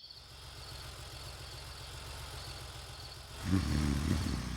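Cartoon vehicle engine running with a steady low rumble, which swells louder for about a second near the end. Crickets chirp faintly throughout.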